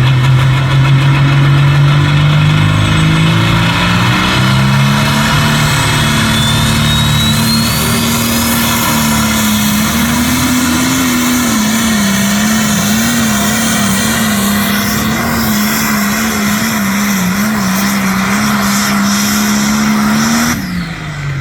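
A pulling truck's engine runs at full throttle through a tractor-pull run. The revs climb in the first few seconds, hold high, then bob up and down in the second half as the truck labours against the sled. Near the end the engine drops off sharply as the throttle is released at the end of the pull.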